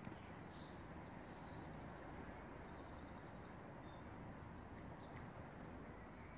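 Quiet outdoor background hiss with faint, short bird chirps now and then.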